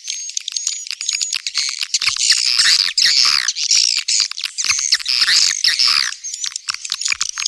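Edible-nest swiftlets calling, rapid clicking and chittering twitters that thicken into a dense chorus in the middle, with thin high tweets near the start and end: a swiftlet lure call recording of the kind played to draw birds into a swiftlet house.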